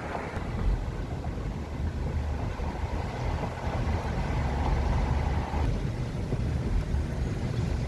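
A vehicle running with a steady low rumble of engine and road noise. A fainter higher hum drops out about two-thirds of the way through.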